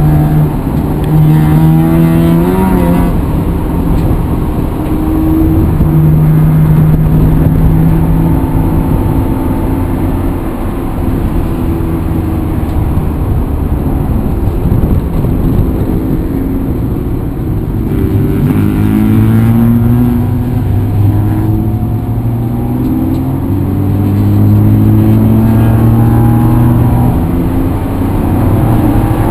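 A motor vehicle's engine running under load, its pitch climbing repeatedly as it accelerates and changes gear, with a steady stretch in the first half.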